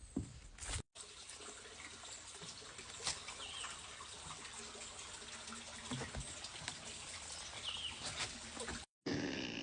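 Running water, a stream trickling with a steady hiss, with a couple of short bird chirps. The sound drops out briefly about a second in and again near the end.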